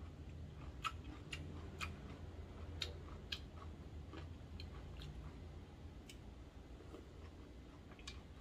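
A person chewing food with the mouth closed: soft, wet mouth clicks at irregular moments, thicker in the first few seconds, over a steady low hum.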